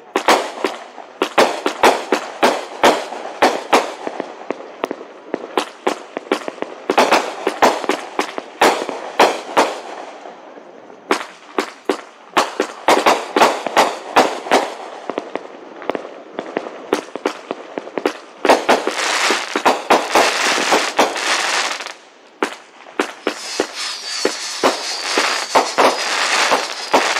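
Aerial fireworks going off in a rapid string of sharp bangs from bursting shells. About two-thirds of the way through, and again near the end, the bangs give way to long stretches of dense crackling.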